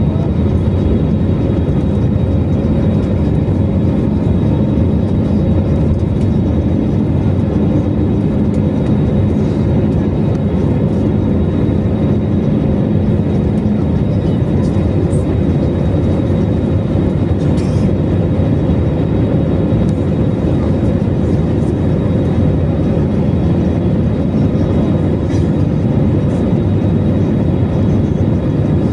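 Airliner landing: a steady, loud rumble of engines and rolling noise with no rise or fall, and a low hum that fades out about halfway through.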